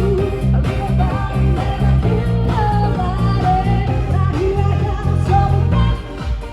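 Cover band playing a rock song: a lead vocal melody over electric guitar and a pulsing bass line, dipping briefly near the end.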